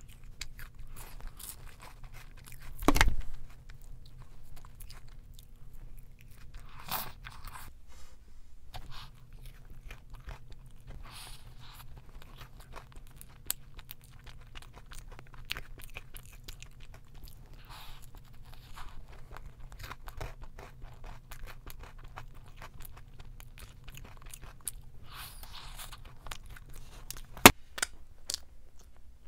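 Close-up eating sounds: food being bitten, crunched and chewed, with many small crunches throughout. A louder thump about three seconds in and a single sharp click near the end, the loudest moment.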